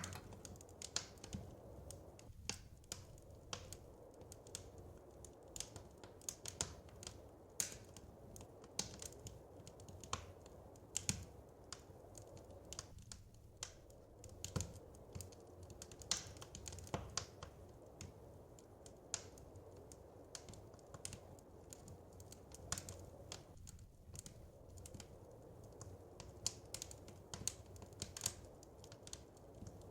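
Wood fire crackling in a fireplace: irregular sharp pops and snaps, several a second, over a steady low background rush.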